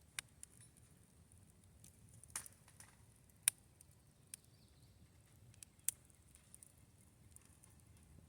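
Wood campfire crackling, with scattered sharp pops and snaps over a faint hiss; four pops stand out.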